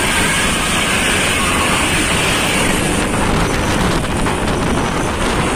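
A vehicle running, with steady road and wind noise.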